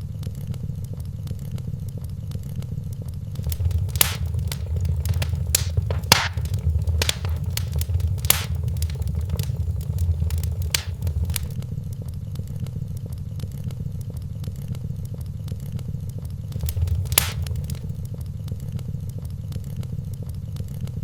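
Wood fire crackling in a fireplace over a steady low rumble, with a busy run of sharp pops from about four to eleven seconds in and one more loud pop a few seconds before the end.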